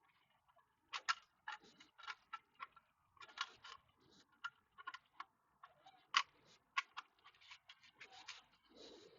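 Irregular small clicks and taps, a few sharper than the rest, from parts and tools being handled on the mini PC, with a brief rustle near the end.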